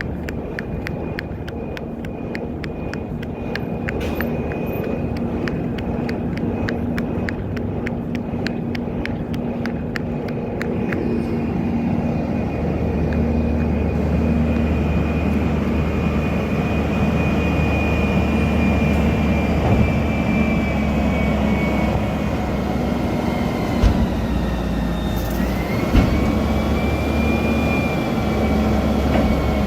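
Recycling truck's engine running with a steady high whine, and a rapid ticking at about three a second over the first ten seconds. The engine note deepens from about twelve seconds in, and two sharp knocks come about two seconds apart near the end.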